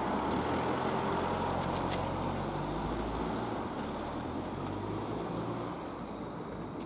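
A train moving away from the level crossing: a steady low rumble with a faint hum that slowly fades.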